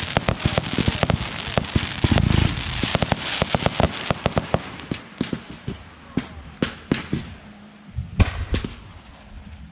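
Fireworks going off: a dense run of rapid sharp cracks and pops with a deeper boom about two seconds in, thinning to scattered, fainter pops toward the end.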